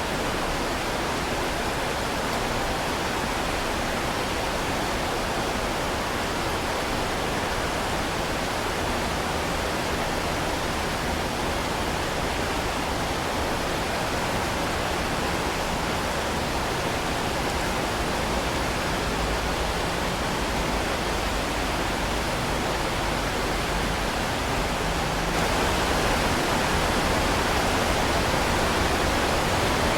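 Heavy rain falling as a steady, dense hiss. It gets a little louder about 25 seconds in.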